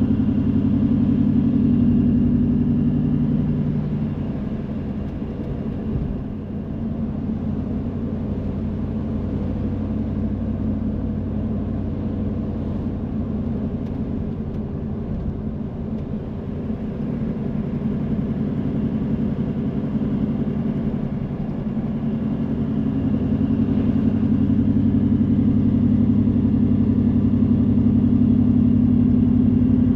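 Car engine and road noise while driving: a steady low hum that eases off through the middle and grows louder again over the last several seconds, with a single small thump about six seconds in.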